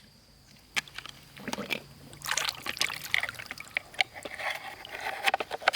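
Water trickling and sloshing as plastic toy vehicles are washed, with irregular light clicks and knocks of the plastic.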